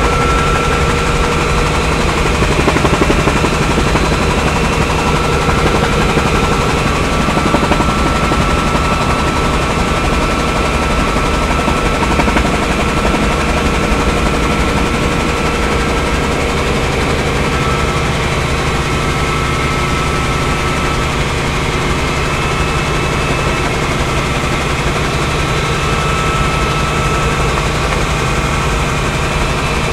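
Helicopter in flight heard from on board: steady, loud engine and rotor noise with a constant high whine.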